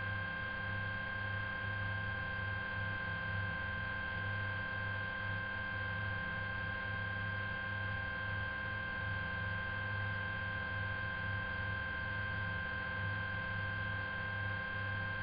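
Helicopter cabin noise heard through the aircrew intercom: a steady drone with two high, steady whine tones over a fluttering low hum.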